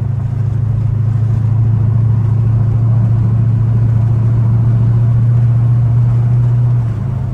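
Straight-piped Chrysler Hemi V8 exhaust droning steadily under way, growing slightly louder, then dropping off suddenly near the end as the throttle eases.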